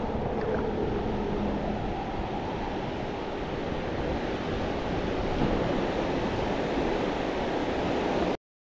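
Steady rush of fast river water through a rapid, with wind on the microphone. It cuts off abruptly near the end.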